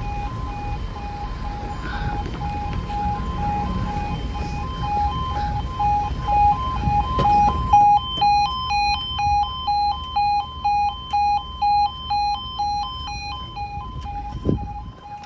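Level crossing warning alarm sounding: two electronic tones alternating about twice a second. A low rumble underneath stops about halfway, and a single knock comes near the end.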